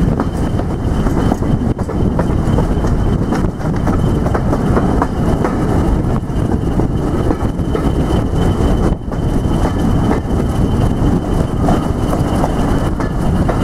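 Diesel-hauled heritage passenger train running along the track, heard from a coach window: steady wheel and rail noise with scattered clicks over rail joints, and a steady high whine alongside.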